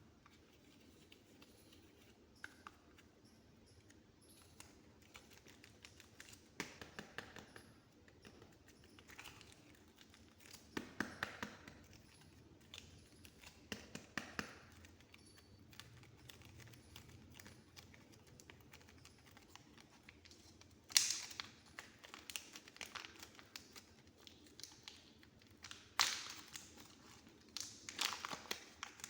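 Soft modelling clay being handled, pressed and pulled, giving faint sticky crackles and taps in scattered bursts, with the sharpest ones about two-thirds of the way through.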